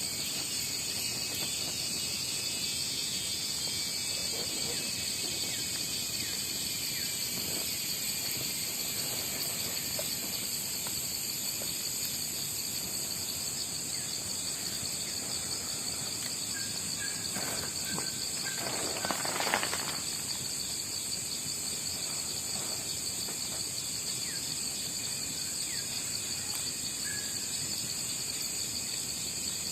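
Steady chorus of crickets and other insects trilling at several high pitches, with a brief rustle and knock about two-thirds of the way through.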